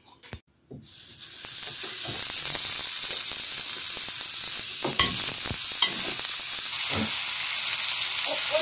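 Meatballs frying in hot oil in a skillet on a gas stove: a steady sizzle that starts about a second in, with a few light clicks as more meatballs go into the pan.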